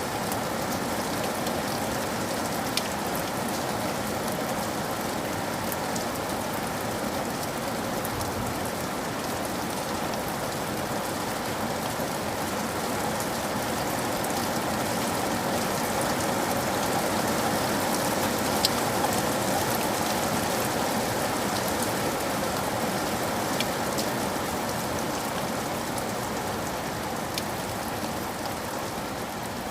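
Steady rain falling, with a few sharp isolated taps or drips here and there.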